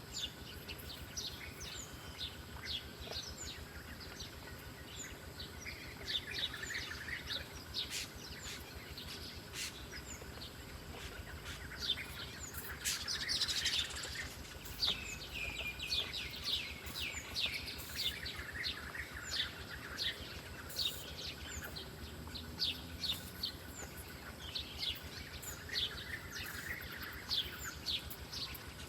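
Small songbirds chirping: a steady run of short, sharp, high chirps, with a few longer warbled phrases now and then.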